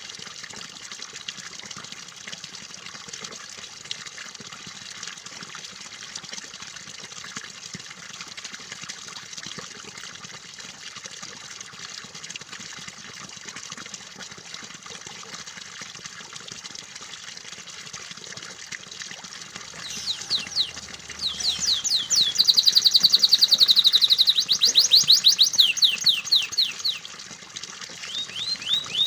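Steady trickling, splashing water. About twenty seconds in, a canary starts singing over it in fast, rapidly repeated trills, louder than the water.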